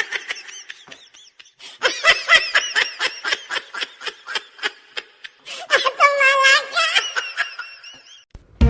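High-pitched laughter in quick repeated bursts, several a second, turning into a longer wavering squeal near the end.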